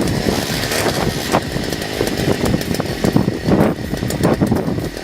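Two-stroke petrol engine of a Hammer Flex MTB60 motor auger running steadily just after starting. It now turns freely, its seizure cured by refitting the ignition coil so it no longer sticks to the flywheel.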